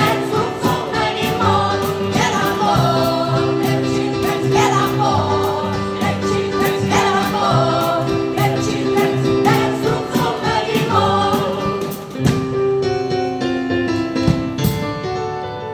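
Live gospel choir singing over instrumental accompaniment, with a steady percussive beat. About twelve seconds in the moving vocal lines thin out, leaving held chords and the beat.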